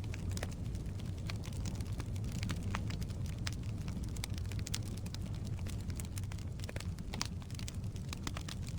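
Firewood burning in a fireplace: irregular sharp crackles and pops over a steady low rumble of flame.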